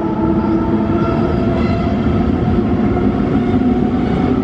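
Double-deck S-Bahn commuter train running past along an underground station platform: a steady rumble of wheels on rails with an even hum of several steady tones from the train, echoing off the platform hall.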